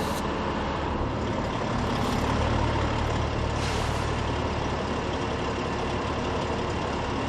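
Heavy rally truck engine running, swelling a little from about one and a half seconds in, with two short hisses around two and nearly four seconds in.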